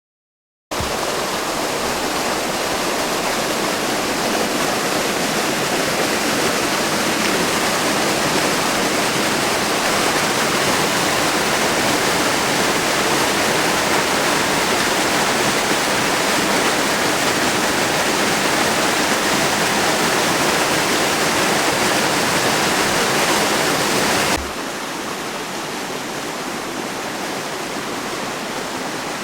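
Waterfall running, a steady rushing of falling water that starts abruptly about a second in and drops suddenly to a slightly lower level near the end.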